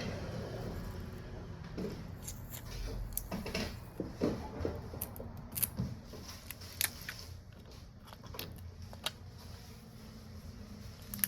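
Scattered light clicks and taps, about a dozen spread irregularly, from small tools and phone parts being handled on a repair bench, over a low steady room hum.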